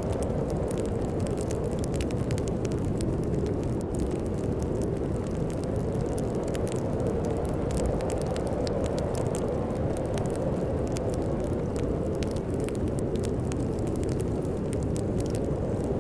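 Wood fire crackling with frequent small, irregular pops, over a steady low rumble of storm wind.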